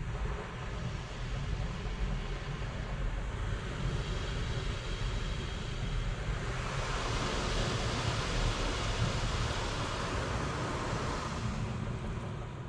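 Automatic car wash at work: a steady rushing hiss over a low rumble. The hiss swells about six and a half seconds in and drops back near the end.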